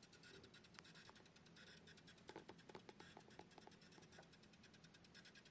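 Faint hiss with fine crackling clicks from a Wi-Fi router, a little "chiadinho" that grows thicker about two to three seconds in. The owner traces the noise to an inadequate power adapter, which he replaces with a 12 V, 3 A supply to stop it.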